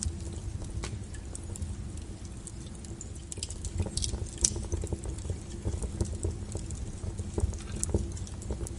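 Wood fire burning, with a steady low rumble of flame under dense, irregular crackling and snapping of the burning logs. A few sharper pops stand out about four seconds in and again near the end.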